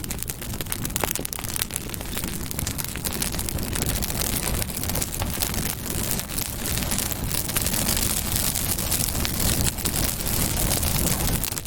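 Campfire burning, with a dense, steady crackle of small pops and snaps over a hiss.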